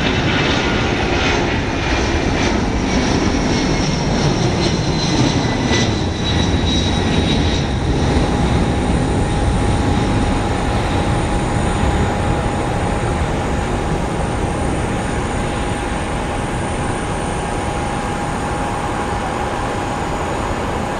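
Boeing 757-200's twin Pratt & Whitney PW2037 turbofans at takeoff power as the jet climbs away: a loud jet rumble whose whine falls in pitch over the first several seconds, then a steady rumble with a steady whine, slowly fading.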